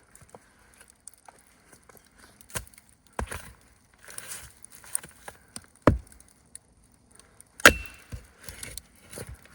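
Wood being knocked and cracked: four or five sharp, irregularly spaced wooden strikes, the loudest about three-quarters of the way through, with rustling and crunching between them.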